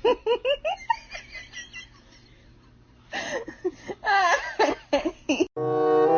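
A person laughing in quick bursts, twice with a short pause between. A steady pitched tone comes in near the end.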